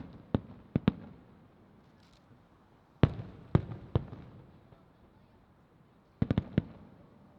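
Aerial firework shells bursting: clusters of three to five sharp bangs about every three seconds, each bang trailing a low rumbling echo.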